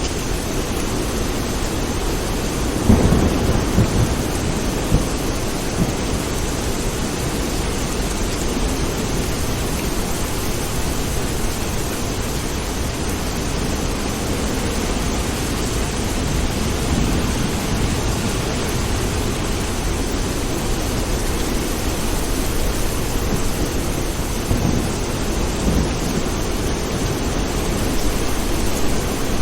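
Steady heavy rain with a roll of thunder about three seconds in that briefly rises above the rain.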